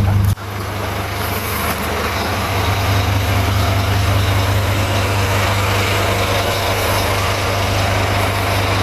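Heavy diesel truck engine running steadily and loud, close to the microphone. It starts abruptly with a brief louder burst, then settles into an even hum that builds a little over the first couple of seconds.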